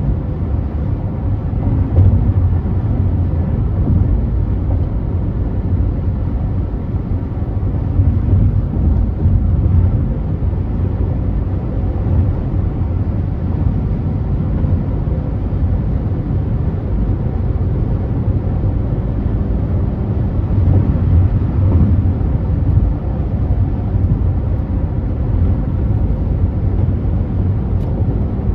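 Steady low rumble of a car driving at freeway speed: road, tyre and engine noise.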